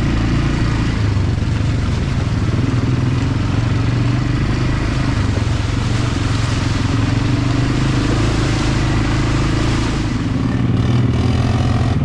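Quad bike (ATV) engine running steadily under way, its pitch shifting slightly as the throttle changes.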